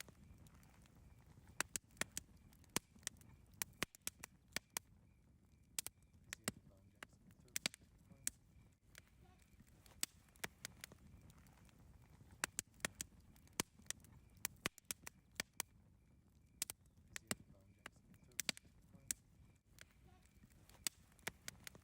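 Wood campfire crackling: irregular sharp pops and snaps, several a second at times, over a low steady rumble of the burning fire.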